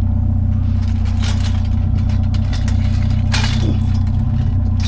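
Truck engine idling steadily, with a couple of brief clatters over it, about a second in and at about three and a half seconds.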